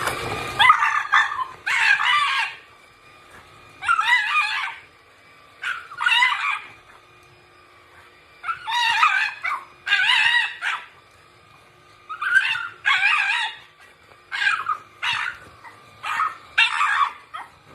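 A dog vocalizing in a string of short, high-pitched calls whose pitch wobbles, each up to about a second long, coming in bouts with brief pauses between.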